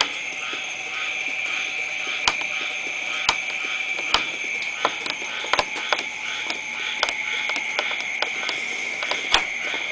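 A steady night chorus of calling insects and frogs, a continuous high trill with a faint pulsing call beneath it. Irregular sharp ticks of light raindrops hitting near the microphone are scattered through it.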